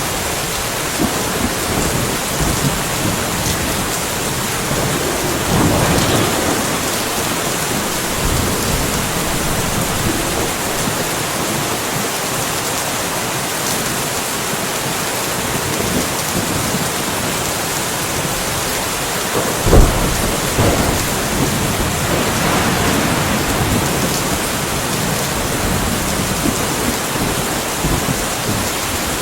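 Steady rain falling during a light thunderstorm, with thunder: a rumble swells about six seconds in, a sharp thunderclap comes about two-thirds of the way through, and a further rumble follows a few seconds later.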